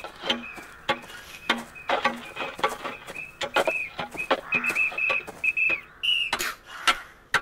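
Shovels striking and scraping into frozen, snow-dusted ground, a rapid run of knocks, with a short high whistled note repeating over them.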